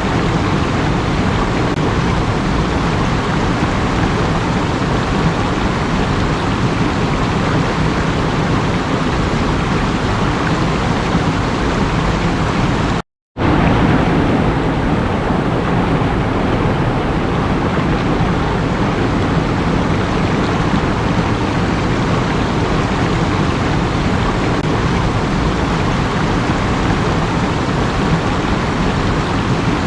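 Running water rushing steadily, like a stream or small waterfall. It cuts out completely for a moment about thirteen seconds in, then comes back with a slightly duller sound.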